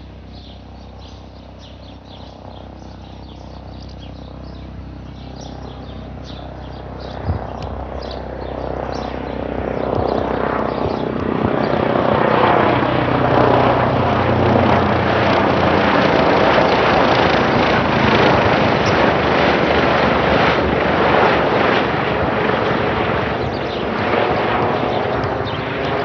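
Airbus H135 helicopter approaching and passing low overhead: its rotor and twin-turbine noise builds over about ten seconds to a loud, steady peak, then starts to fade slightly near the end.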